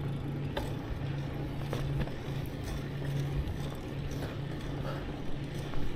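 Steady low hum and rumble of a bicycle rolling along, with a few light clicks.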